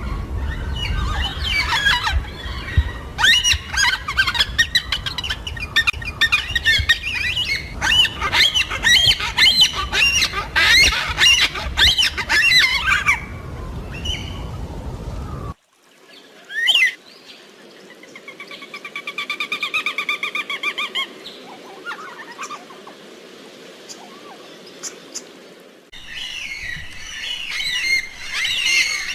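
Yellow-tailed black cockatoos calling. Dense overlapping squawking and chattering calls fill the first half and break off abruptly. A single drawn-out wailing call comes in the middle, and the chattering starts again near the end.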